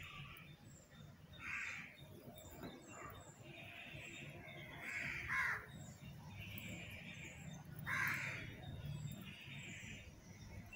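A bird calling over and over in the background, about eight short calls spaced a second or so apart, one of them dropping in pitch.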